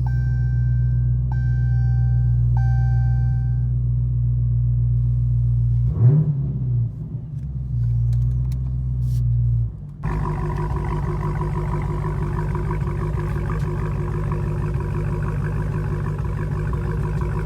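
2016 Hellcat's supercharged 6.2-litre Hemi V8 idling through Vibrant mid mufflers with a deep, steady rumble while a car warning chime repeats about once a second and then stops. About six seconds in the engine is blipped once, a short rising rev. About ten seconds in the idle changes to a busier, raspier sound.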